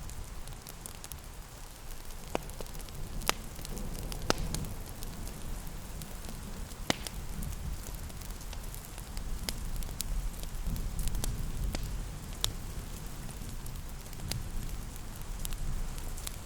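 Wood fire crackling in a fireplace, with irregular sharp pops over a low rumble, against a steady hiss of rain.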